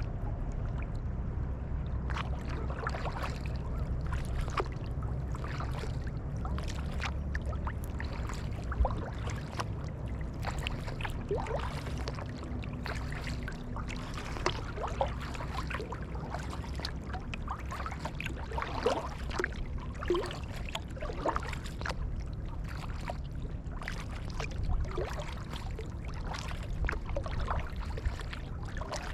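Kayak paddle blades dipping into the water, splashing and dripping stroke after stroke, with water trickling and gurgling, over a steady low rumble.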